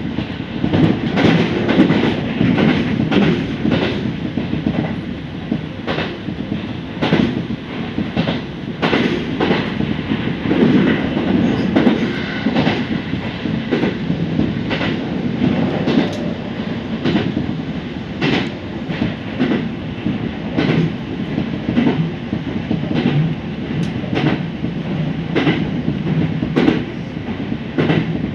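Kintetsu Nara Line electric train running at speed, heard inside the front car: a steady rumble of wheels on rail, with sharp clacks as the wheels pass over rail joints, about one or two a second.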